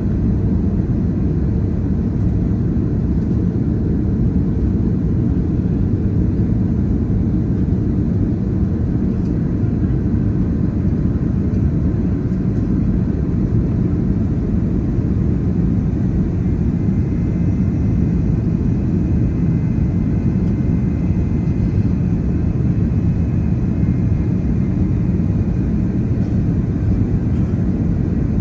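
Steady, even low rumble of an Airbus A330-900neo airliner in flight, the engine and airflow noise of the aircraft ahead of its landing. A faint steady high tone joins in about halfway through.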